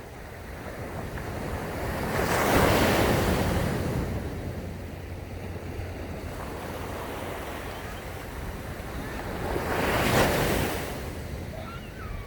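Ocean waves breaking on a sandy beach, two waves cresting in surges about two and a half seconds and ten seconds in, over a steady wash of surf. Wind buffets the microphone with a low rumble.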